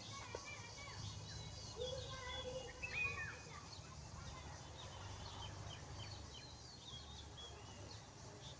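Several birds chirping and calling in short, quick notes over a steady low background rumble.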